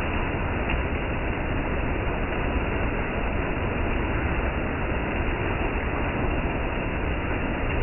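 Steady rainfall on stone paving: an even, unbroken rush of noise with no separate drops or other events standing out.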